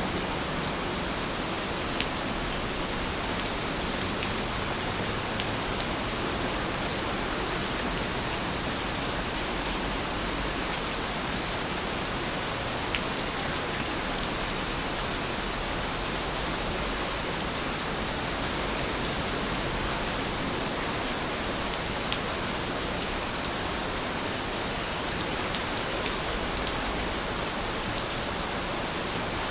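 Steady rainfall, an even hiss with scattered sharp ticks of single drops striking a surface.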